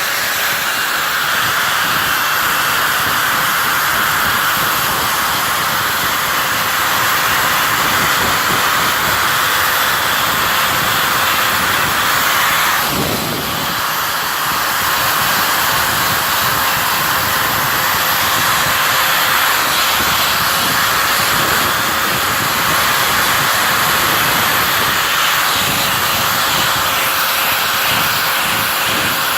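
Handheld power tool running steadily with a constant whine, buffing rust off a big cast-iron blacksmith's cone mandrel, with a dense hiss from the wheel on the iron. The grinding eases briefly about halfway through.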